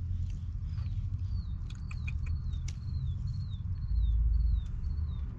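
A bird repeating a short, high, falling chirp, about two to three a second, over a steady low rumble of wind on the microphone that swells about four seconds in. A few sharp clicks sound about two seconds in.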